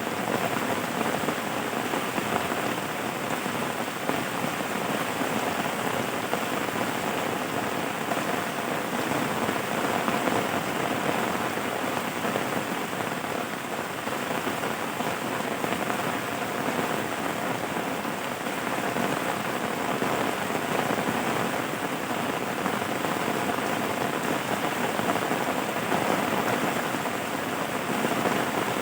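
Steady rain falling, an even hiss of drops that holds the same level throughout.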